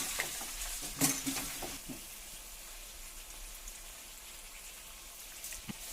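Whole spices and cumin seeds frying in hot oil with tomatoes in a pan, a steady sizzle.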